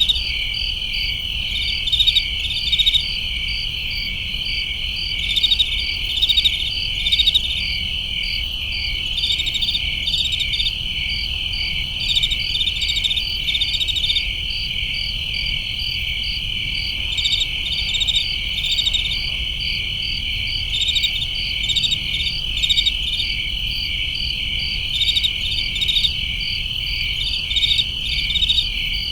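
Crickets chirping in a dense night chorus: a steady high-pitched trill, with louder pulsed chirps coming in short runs every second or two.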